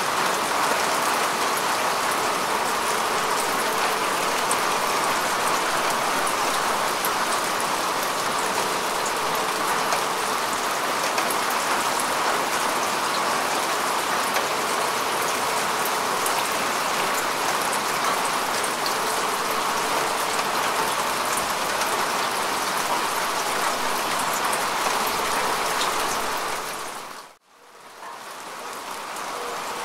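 Steady rain falling on grass and earth: an even hiss of many fine drops. Near the end it dips out almost to silence for a moment and swells back in.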